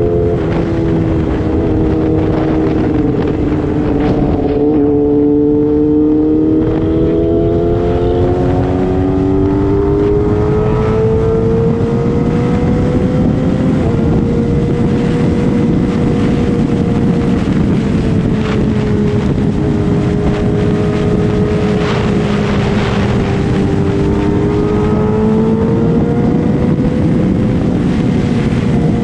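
Sport motorcycle engine running at steady high revs, its pitch slowly rising and falling as the throttle is eased on and off.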